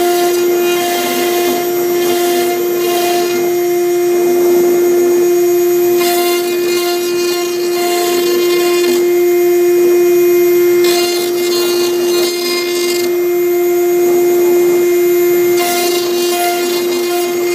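CNC router spindle with a V-bit cutting MDF, running with a steady high whine while the carving noise above it changes every few seconds as the bit moves along the letter strokes.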